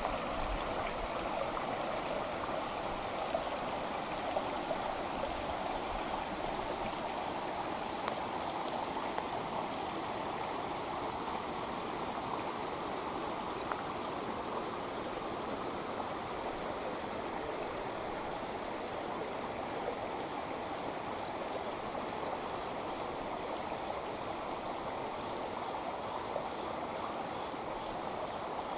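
Creek water flowing steadily, a continuous even rush with a few faint tiny splashes.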